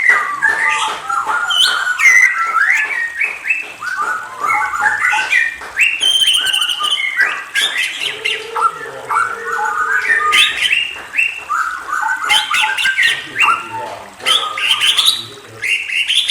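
Murai songbird singing a continuous, rapid, varied song of whistled notes and chirps, many of them gliding up or down in pitch.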